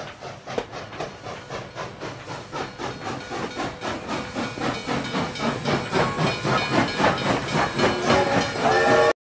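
Train approaching, its wheels clattering rapidly and evenly and growing steadily louder. A wavering tone sounds shortly before the sound cuts off suddenly.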